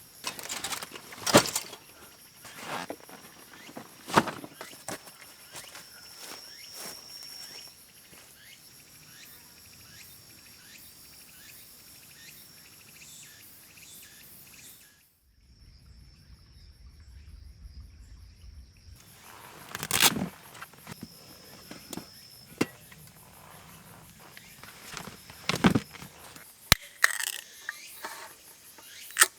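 Insects chirring steadily in the background, among them cicadas, with a few sharp knocks and rustling handling noises now and then. About halfway through the high chirring drops out for a few seconds, leaving a low rumble.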